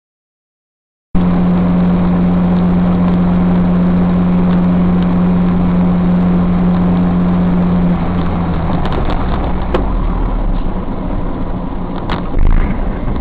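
Vehicle on the road: steady engine and road noise with a low hum, starting abruptly after about a second of silence. The hum weakens about eight seconds in, and there are a few faint clicks and a short louder swell near the end.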